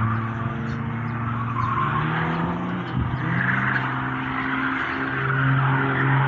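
Light propeller aircraft's piston engine running under power during aerobatics, its note shifting in pitch: a brief dip about three seconds in, then a higher, steady note.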